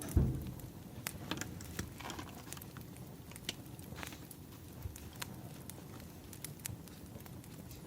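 Crackling wood fire: irregular sharp pops and snaps from burning firewood over a low bed of noise, with a dull low thump just after the start.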